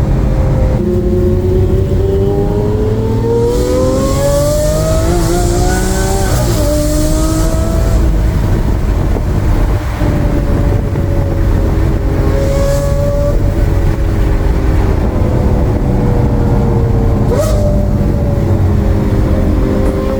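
Lamborghini Aventador LP720-4 50th Anniversario's 6.5-litre V12 running through a Brilliant aftermarket exhaust as the car drives, its pitch rising and falling gently at moderate engine speed. There is a brief upward flick in pitch near the end.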